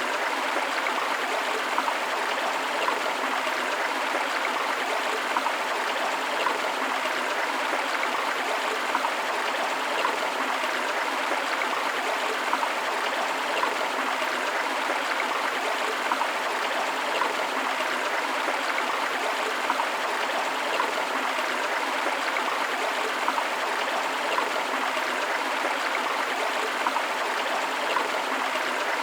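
A forest river flowing over rocks with a small waterfall, a steady rush of water with bubbling and trickling over it.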